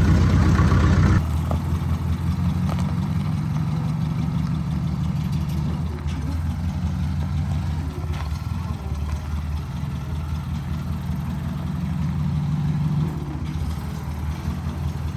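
Tractor engine running steadily with a low hum. It is louder for about the first second, then drops abruptly to a quieter steady run.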